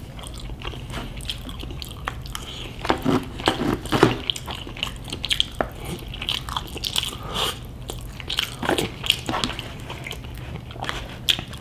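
Close-miked chewing and mouth sounds of someone eating palabok noodles: irregular wet smacks and clicks, thickest about three to four seconds in and again near nine seconds, over a low steady hum.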